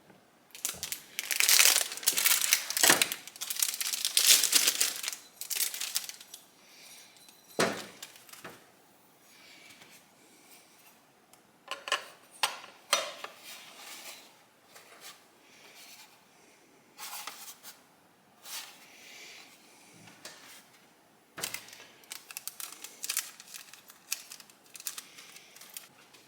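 Hands handling small motorcycle parts: a spell of crinkling and rustling for the first several seconds, then scattered rustles, clicks and light knocks with quiet gaps between.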